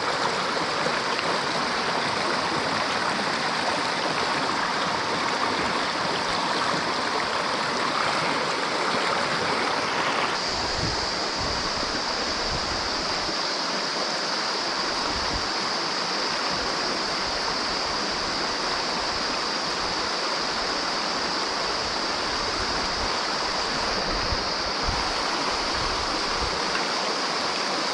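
Mountain stream water running steadily over rocks, its hiss turning brighter about ten seconds in, with occasional low rumbles after that.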